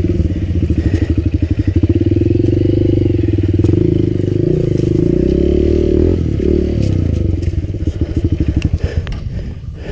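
Enduro dirt bike engine running under throttle, its pitch dipping and then rising again about halfway through. A few sharp knocks cut through it.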